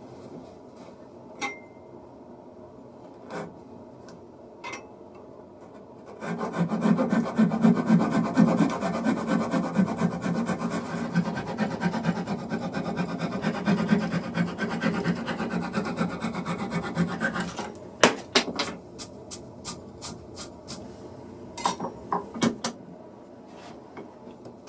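Wood being worked by hand with a rasp or file: a steady scratchy rubbing that lasts about eleven seconds, followed by a quick run of light taps and clicks.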